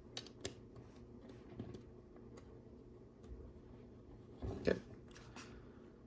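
Small plastic LEGO pieces being handled and pressed together: a few scattered light clicks, with a louder clatter about three-quarters of the way through.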